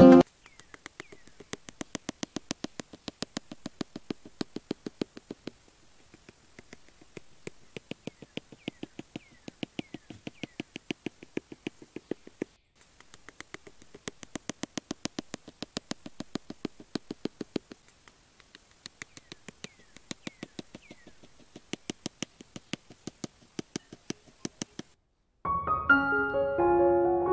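Bamboo sticks grinding into sand as they are pushed and twisted in by hand: quick gritty crunching clicks, several a second, in runs of a few seconds with short pauses. Piano music starts near the end.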